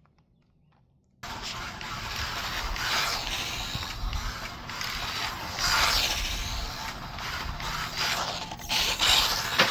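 After about a second of near silence, a small RC short course truck drives hard, its electric motor and gears whirring and its tyres scrabbling on the ground. The sound swells and fades several times as the throttle is worked.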